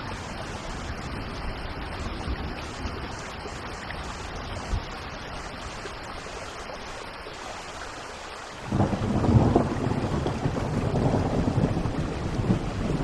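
Steady rainfall, then about two-thirds of the way in a loud rumble of thunder breaks in suddenly and keeps rolling, growing louder toward the end.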